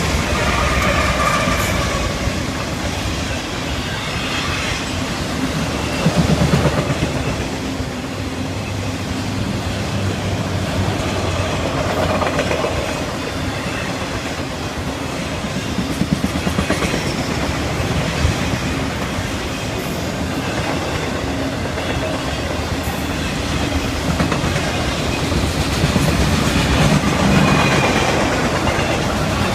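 Train rolling past at close range: a steady rumble of rail cars with wheels clacking over the rail joints, swelling louder every few seconds. Faint high wheel squeal sounds near the start.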